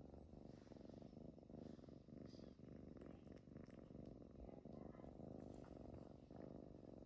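Domestic cat purring steadily, a quiet low rumble that swells and eases with its breathing.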